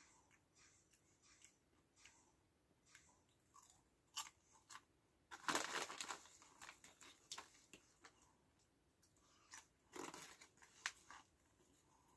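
Faint chewing and crunching of barbecue-flavour lentil chips, light and crisp, with small clicks and two louder crackles about five and a half and ten seconds in.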